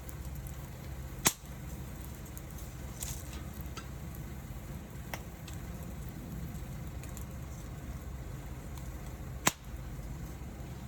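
Campfire crackling: faint ticks over a steady low rumble, with two sharp, loud pops, about a second in and near the end.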